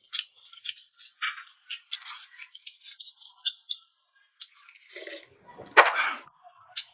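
Close-up mouth sounds of a man chewing food: a run of short, crisp crunches and smacks, with a louder, fuller smack about six seconds in.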